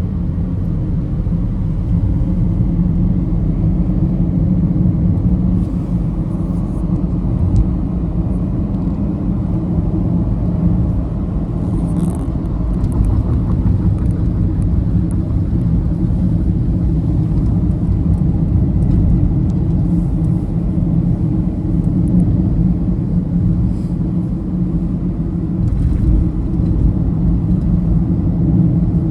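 Steady low rumble of a moving road vehicle, engine and tyre noise, with a few faint ticks.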